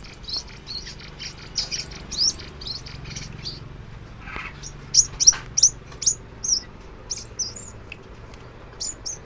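A caged sunbird singing: a string of short, high chirps and twitters, coming thick and loud for a stretch about five seconds in.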